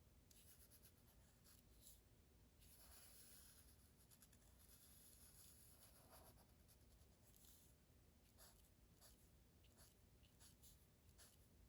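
Faint felt-tip marker strokes on paper, short scratchy swipes with pauses between, over near silence.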